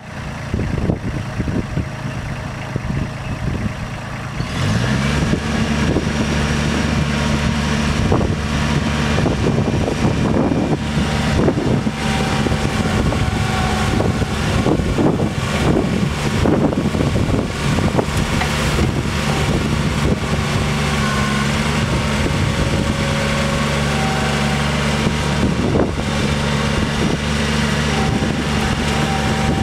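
Bobcat 463's Kubota diesel engine running. About four and a half seconds in it speeds up to a higher, steady throttle, with clanks and rattles throughout.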